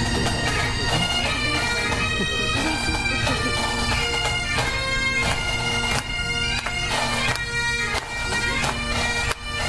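Pipe band playing a tune on Highland bagpipes: the steady drones under the chanter melody moving note to note, with wind buffeting the microphone.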